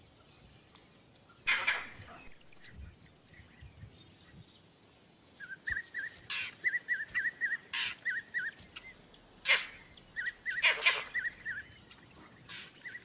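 Vervet monkey alarm calls: a string of short, sharp calls spaced a second or more apart, with runs of quick high chirps at about four a second between them.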